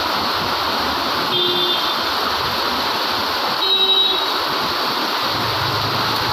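Heavy rain pouring down steadily, with two short high tones about one and a half and four seconds in and a low engine rumble coming in near the end.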